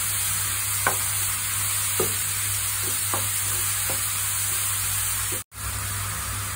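Chopped button mushrooms sizzling as they fry in oil in a nonstick pan, stirred with a wooden spatula that knocks and scrapes against the pan a few times, as the mushrooms cook off their water. The sound drops out for a moment about five and a half seconds in.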